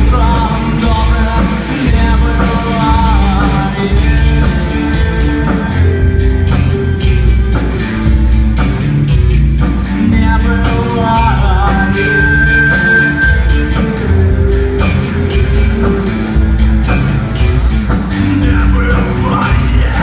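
Rock music from a band: a steady drum and bass beat under a lead melody line, with no words made out, as the song runs into its close.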